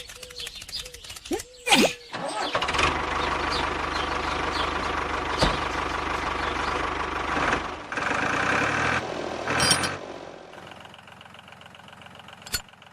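Mini tractor's motor running, loud for about five seconds, then changing and settling to a quieter steady run. A single sharp click near the end.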